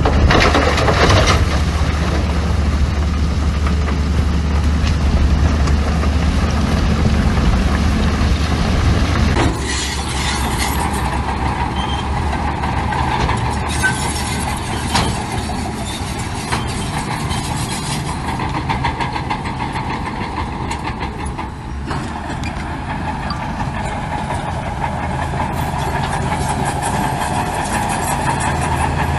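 Heavy diesel construction machinery running: a steady, loud low engine drone with mechanical clatter, the sound changing abruptly about a third of the way in.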